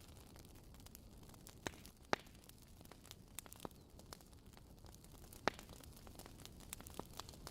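Wood fire crackling: irregular sharp pops and snaps over a low, steady hiss, with two louder pops about two seconds and five and a half seconds in.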